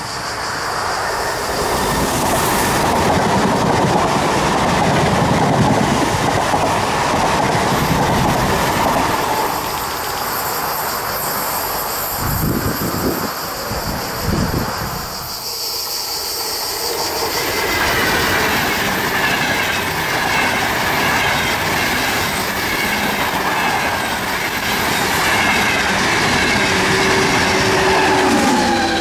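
A train passing at close range: a steady rush of rail noise, a rhythmic clatter of wheels about halfway through, and a high wheel squeal coming in during the second half.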